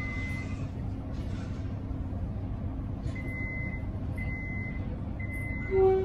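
Metro X'Trapolis electric train: a steady low rumble and hum, with a high electronic beep ending just after the start, then three more beeps about a second apart. Just before the end comes a short, louder and lower tone.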